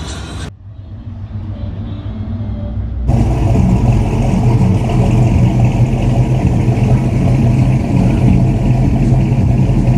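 A vehicle engine running with a deep, steady note. It grows louder over the first few seconds, then holds loud after an abrupt change about three seconds in.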